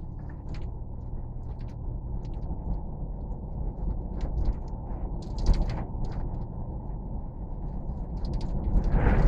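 Steady low rumble of a moving vehicle heard from inside, with scattered light rattles and clicks and a louder swell near the end.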